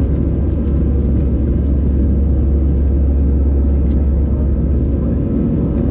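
Airbus A320's engines heard from inside the cabin during the climb after take-off: a loud, steady, deep rumble.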